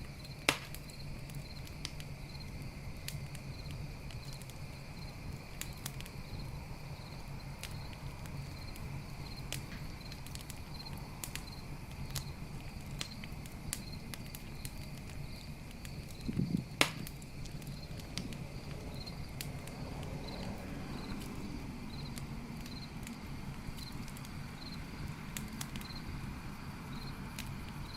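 Campfire crackling, with scattered small snaps of burning wood and two sharp loud pops, one about half a second in and one around 17 seconds in. A cricket chirps in an even, steady pulse behind it.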